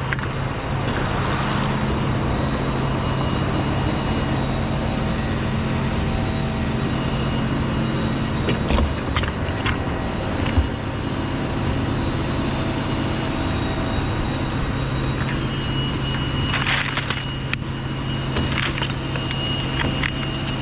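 An engine running steadily at an even speed, with a few short cracks and rustling bursts over it.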